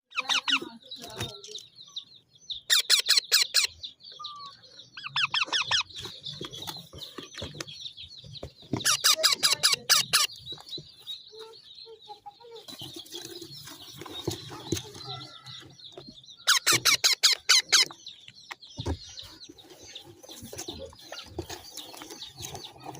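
Birds chirping continuously in a high register, broken four times by loud bursts of rapid rattling calls or wingbeats lasting about a second each.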